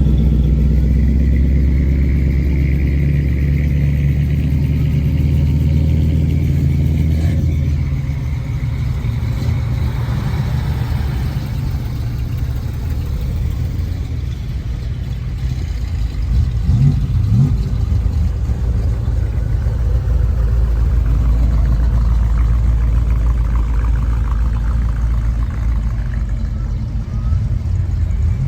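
Car engines running at low speed: a deep, steady engine note for the first several seconds, then a rougher low rumble with a brief rise in pitch partway through.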